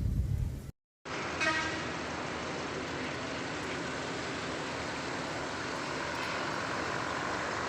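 Steady motor-vehicle and traffic noise, an even engine-and-road hiss, starting after a brief low rumble and a cutoff about a second in. Just after it starts there is a short pitched tone like a horn toot.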